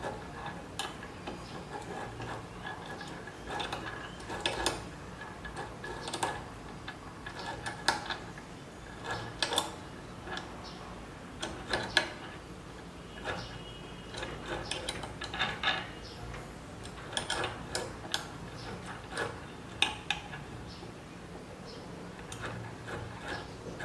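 Irregular metallic clicks, clinks and knocks of hand tools and metal parts being handled and fitted during assembly of a DIY CNC machine's Z axis (linear rail, carriage, bolts). A faint steady high tone runs under the first half.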